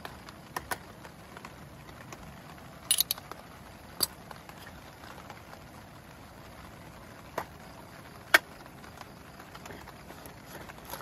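Steady rain patter with a few sharp clinks and knocks scattered through it, a quick cluster about three seconds in and the loudest single knock about eight seconds in.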